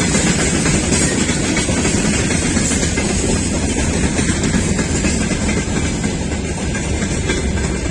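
Diesel-hauled freight train running past, wagon wheels rolling on the rails with some clickety-clack over the joints.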